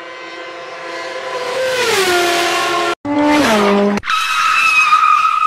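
Race-car sound effect: an engine note that drops in pitch twice, broken by sudden cuts, then a steady high tyre screech from about four seconds in.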